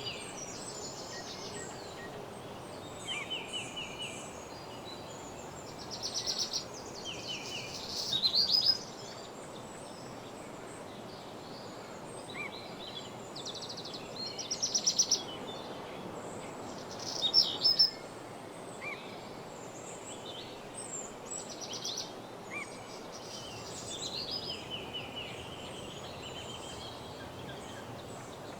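Woodland birdsong: songbirds giving short, rapid trilled phrases every few seconds over a steady background hiss.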